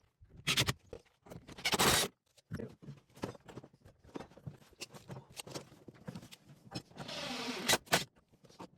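Plumbing work noises: tools and parts scraping, rubbing and knocking, with a short steady whirr about seven seconds in followed by two sharp knocks.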